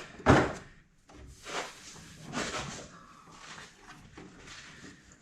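Hand-work noises: one loud clunk about a third of a second in, then quieter scraping and rustling.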